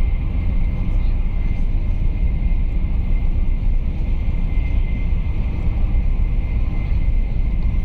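Steady low rumble of a high-speed train running at speed, heard from inside the passenger carriage, with a faint high steady tone running through it.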